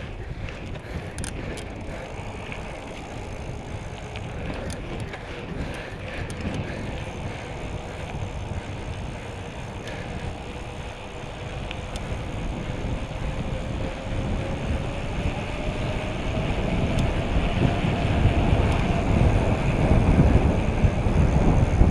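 Wind on the microphone and rolling noise of a bicycle ride, a steady low rumble and hiss that grows louder over the last several seconds.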